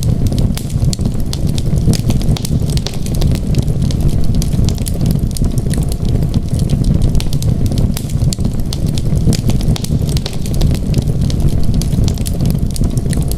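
Wood fire crackling: a steady low rumble of burning with many quick sharp pops and snaps.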